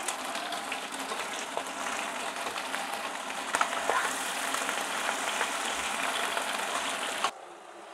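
Beef roast and chopped vegetables sizzling in hot olive oil in a pot, with small scrapes and clicks as a spatula stirs them. The sizzle cuts off suddenly near the end.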